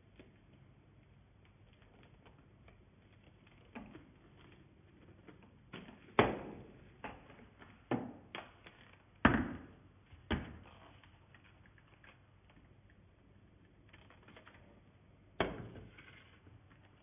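Plastic parts of a vacuum cleaner being handled and taken apart by hand: scattered light clicks and ticks, with a handful of sharper knocks, most of them between about six and ten seconds in and one more near fifteen seconds.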